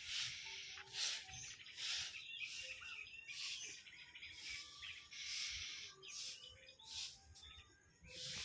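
Birds chirping and calling, with short hissing bursts repeating about once or twice a second.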